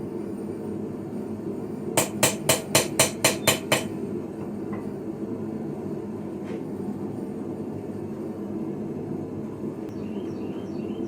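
Blacksmith's hand hammer striking hot iron on an anvil while forging a sickle: a quick run of eight blows at about four a second, over a steady low hum.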